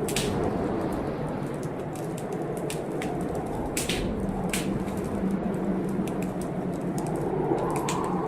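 Wood fire crackling in a fireplace, with sharp pops scattered irregularly, two of the loudest about four seconds in, over a steady rushing storm noise.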